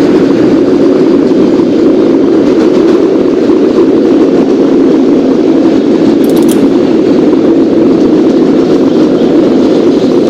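Subway train running along the tracks: a loud, steady rumble with no break.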